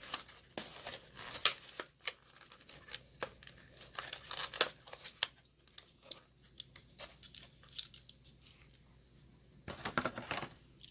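A Hot Wheels blister pack being handled and torn open: cardboard tearing and the plastic blister crinkling in short, irregular bursts, with a busier burst near the end.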